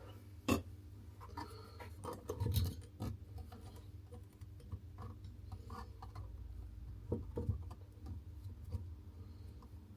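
Hands working under a basin fitting a mixer tap: scattered small knocks, clicks and rubbing of the tap's fixings being handled and wound on, the loudest knocks about half a second in, around two and a half seconds and about seven seconds in.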